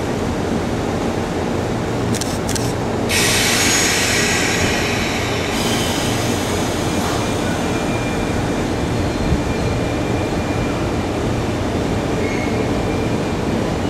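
JR West 201 series electric train pulling out of the station, with wheels and running gear rumbling steadily. A loud hiss sets in about three seconds in and fades after a couple of seconds, and faint high whining tones follow as the train moves off.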